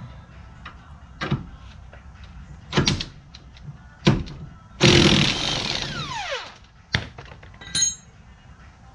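Metal hand tools clanking and knocking against each other, a few separate hits spread out. About five seconds in comes a longer, louder scraping rattle, and near the end a ringing metallic clink.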